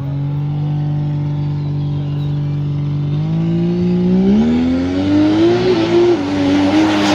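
Drag race car engine running at a steady pitch, then rising in pitch from about three seconds in as it accelerates, and rising again near the end.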